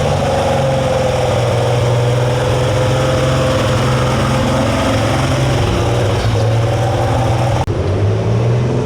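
Super stock pulling tractor's engine running hard at a high, nearly steady pitch. About three-quarters of the way through, the sound changes abruptly.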